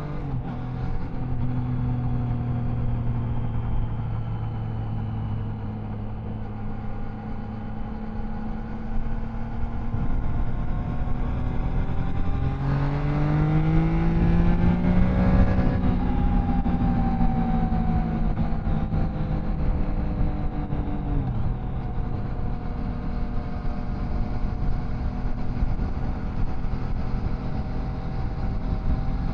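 Triumph Tiger Sport 660's three-cylinder engine running at road speed under way, with wind rush. Its revs jump and climb about halfway through, ease off, then drop back down about two-thirds of the way through, like a gear change.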